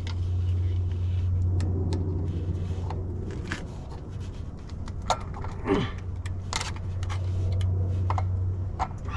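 Small metal clinks and rattles of a bolt and wire being worked by hand, over a steady low hum.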